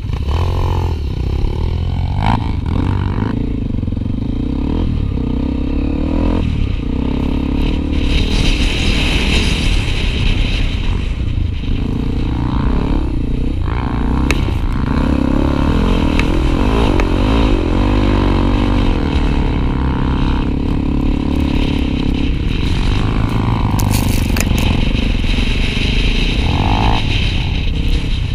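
Honda XR250 Tornado single-cylinder four-stroke motorcycle being ridden over a dirt trail, the engine running continuously with revs rising and falling, along with rattling and scraping.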